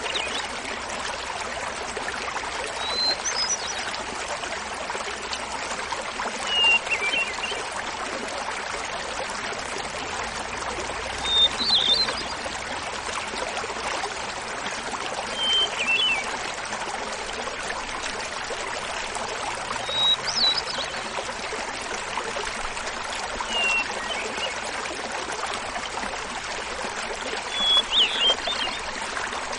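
Small mountain waterfall babbling steadily, with a hermit thrush singing over it. There are seven flute-like songs about four seconds apart, each a held opening note followed by a quick run of notes, and successive songs alternate between a higher and a lower pitch.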